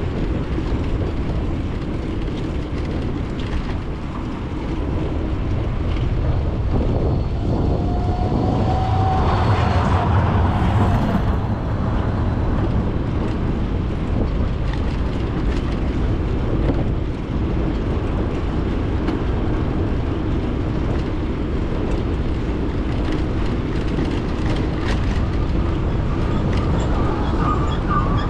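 Steady low rumble of a bicycle riding along city streets, heard through a GoPro mounted on the bike: tyre and road noise with air rushing past the microphone. It swells for a couple of seconds about ten seconds in, with a short tone that rises slightly.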